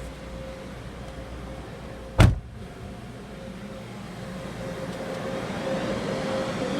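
A car door shuts with a single heavy thump about two seconds in, over a steady hum that grows louder near the end.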